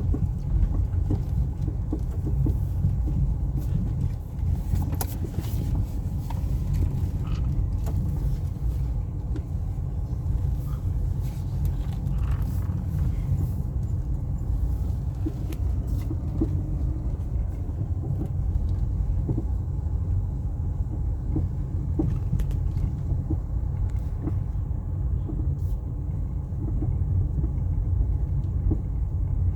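Car on the move, with a steady low road and drivetrain rumble and irregular short knocks from the front left wheel. The fault behind the knock has not yet been found.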